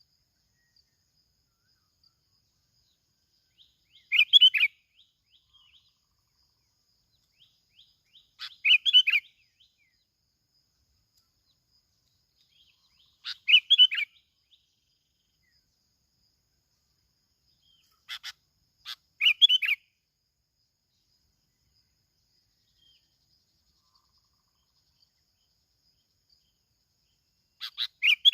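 Bulbul calls given in short chirping phrases, repeated about every five seconds with silence in between; there is a pair of phrases about two-thirds of the way through.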